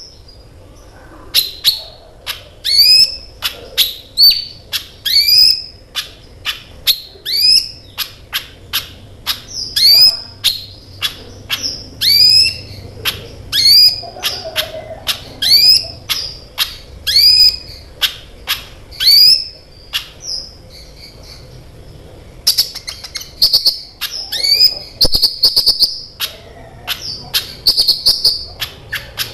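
Kolibri ninja sunbird singing vigorously: a run of loud, sharp, high chirps, about one a second. About three-quarters of the way through they give way to fast, dense trilling.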